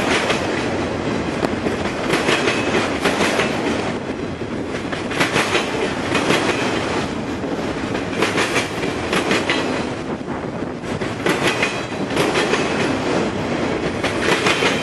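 Train cars rolling past, their wheels clacking over rail joints in recurring clusters of clicks over a steady rumble.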